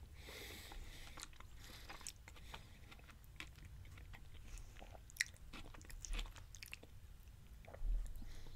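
Quiet, close-up chewing of a mouthful of Chipotle beef power bowl, with scattered faint clicks and one sharper click about five seconds in.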